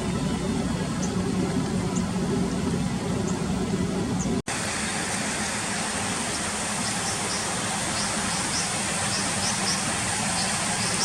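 Steady rush of river water, broken by a brief dropout about four and a half seconds in, with faint short high chirps scattered through the second half.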